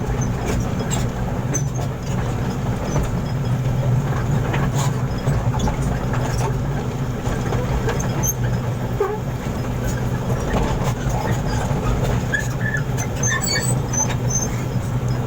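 A heavy engine running steadily, a constant low drone with scattered faint knocks and clicks.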